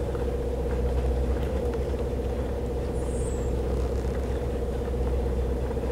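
Whale-watching boat's engine running steadily: a low rumble with a constant hum above it.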